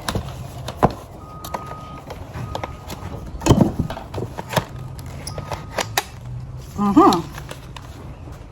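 Plastic parts of a new cordless stick vacuum being handled and fitted together: scattered clicks and knocks, with a few faint short beeps and two brief voice sounds.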